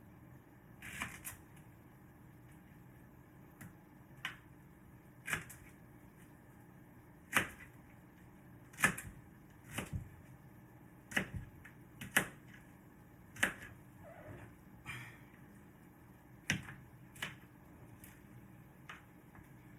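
Sharp, irregular knocks and clacks of a kitchen utensil against cookware or a board, about one a second, over a faint steady hum.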